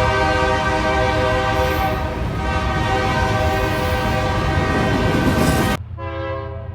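Diesel freight locomotive's multi-chime air horn blowing a chord over the rumble of the train, with a brief break about two seconds in. Near the end the sound cuts off abruptly to a fainter, shorter horn blast.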